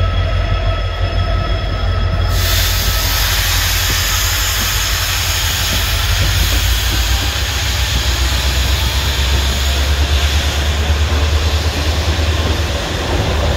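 Express train's coaches running on the rails, heard from an open coach doorway: a steady low rumble, joined about two seconds in by a loud high-pitched noise that carries on.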